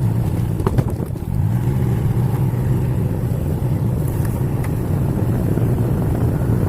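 An engine running steadily: a constant low drone with no change in speed.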